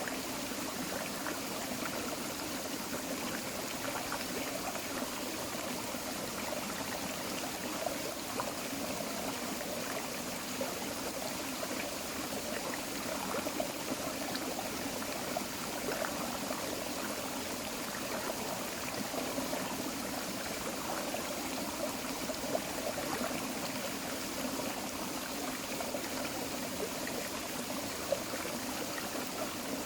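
Creek water flowing steadily over rocks, an even rush with a few brief splashes and gurgles scattered through it.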